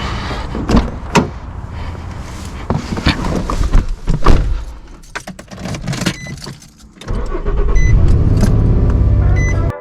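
Motorcycle engine running, with clicks, knocks and jangling rattles over it. About seven seconds in it becomes a loud, steady low rumble, then cuts off abruptly at the end.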